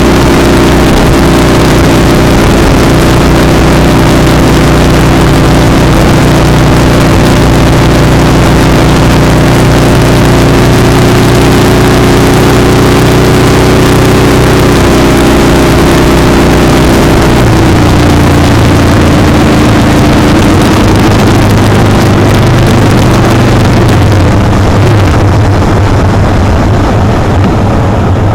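Motorcycle engine running at speed, heard close up from a foot-peg mount, with loud wind rush over the microphone. About two-thirds of the way through the engine note drops as the bike slows, and near the end the wind rush fades.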